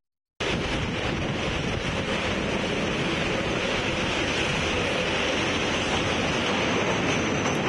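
Steady rush of wind on the microphone mixed with the rolling noise of a moving train, heard from an open carriage window. It cuts in after a split second of silence.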